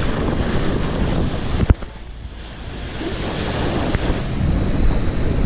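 Rough sea surf washing onto the beach, with strong wind buffeting the microphone. A single sharp click about a third of the way in, after which the surf drops back and builds up again.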